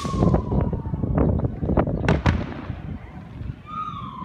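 Fireworks going off: a rapid string of sharp cracks and bangs through the first two and a half seconds, thinning to scattered fainter pops.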